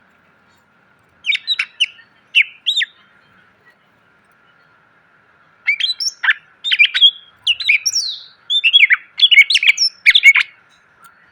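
Green leafbird (cucak ijo) singing: a short burst of sharp, sweeping chirps, then after a pause a longer, busier run of rapid chirps and harsh squawk-like notes. A faint steady hiss runs underneath.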